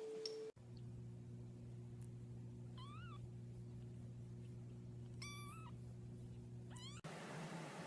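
A cat giving three short, faint meows: one about three seconds in, a wavering, trill-like one about two seconds later, and a quick rising one near the end, over a steady low hum.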